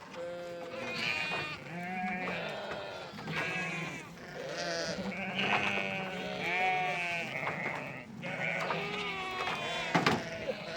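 A flock of sheep bleating, many calls overlapping one after another, with one sharp knock about ten seconds in.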